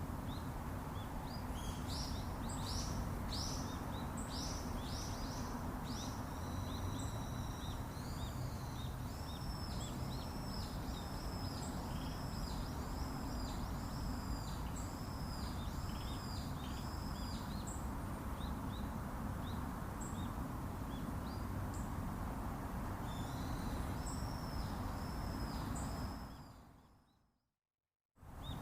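Outdoor ambience with a bird calling over a steady low rumble. First comes a run of quick chirps, then a series of high arched notes at about two a second, and more of them later. The sound cuts out completely for about a second and a half near the end.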